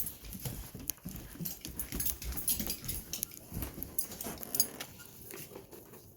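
Dogs moving about close by: an irregular scatter of short clicks and scuffles, busiest for the first four and a half seconds and then quieter.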